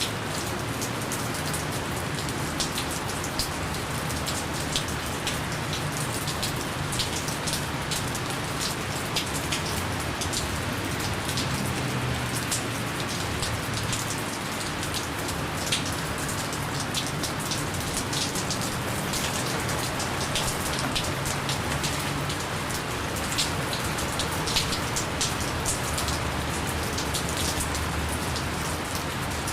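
Steady gentle rain falling, an even hiss with many small individual drops ticking on a surface.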